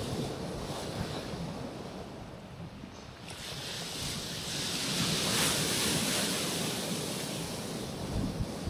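Sea waves washing onto a rocky shore: the surf eases off, then a wave breaks and hisses up to a peak a little past the middle before receding. Wind buffets the microphone.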